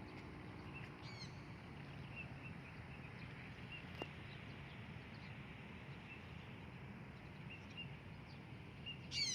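Faint outdoor ambience with distant birds: short high chirps coming in pairs every few seconds, one call about a second in, and a louder bird call near the end.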